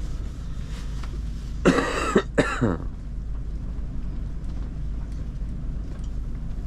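A man's short vocal outburst, a drawn-out "whoa" in a few quick bursts, about two seconds in, over a steady low rumble.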